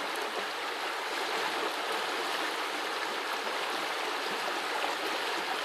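A small forest brook running and babbling steadily.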